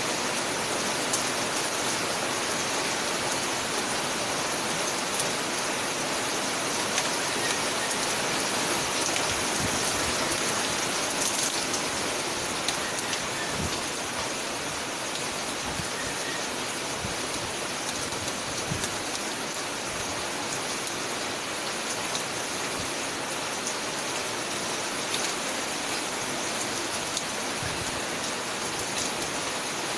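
Heavy rain falling steadily: an even, dense hiss with scattered individual drops ticking on nearby surfaces.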